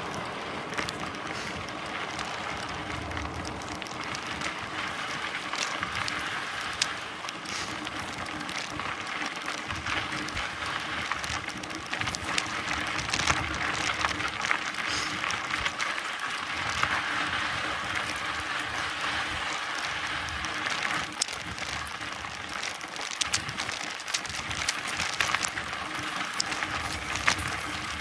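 Mountain bike being ridden along a path: a steady hiss of tyres rolling and long grass brushing against the bike, with frequent small clicks and rattles.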